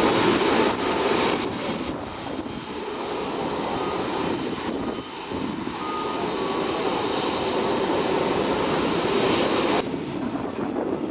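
Jet engines of an Asiana Airbus A380 running as the airliner taxis, a steady rushing roar. It drops abruptly to a quieter, thinner sound near the end.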